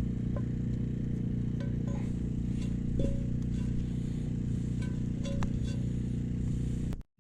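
Wood campfire and butter melting in a cast iron skillet, with scattered crackles and pops, over a steady low hum. The sound cuts out briefly just before the end.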